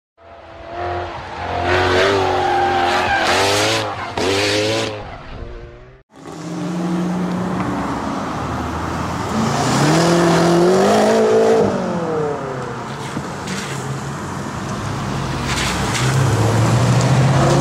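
BMW M5 F10's 4.4-litre twin-turbo V8 revving loudly several times in quick succession. After a cut, it accelerates, its pitch climbing for a couple of seconds and then falling away, before running steadily.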